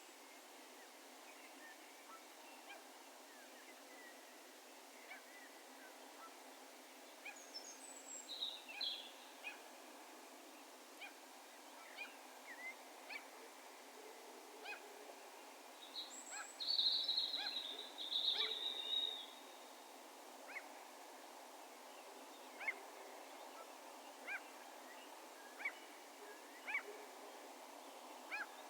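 Wild birds calling over a faint steady background rumble: short, sharp high chirps repeat about once a second through the second half, and a louder burst of rapid calls comes a little past halfway.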